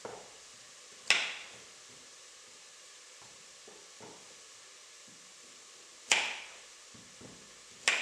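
Three sharp clacks of kitchen utensils or cookware, one about a second in, one about six seconds in and one near the end, each ringing briefly, over a faint steady hiss.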